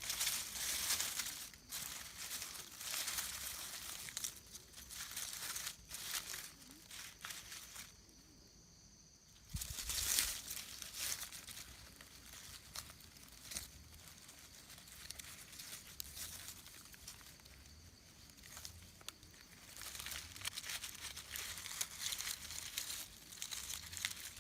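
Dry leaf litter rustling and crackling in uneven bursts as it is handled and brushed aside around forest mushrooms. The loudest burst comes about ten seconds in.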